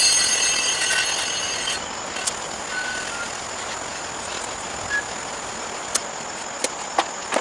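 Compressed air hissing with a shrill whistle from an air chuck filling a riding mower's rear tire, stopping about two seconds in. A few sharp clicks follow near the end.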